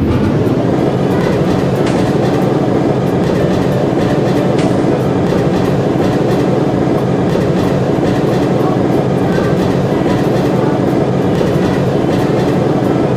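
Toy brick train running along its track: a steady motor whir with a continuous rattle and many small clicks of the wheels and track.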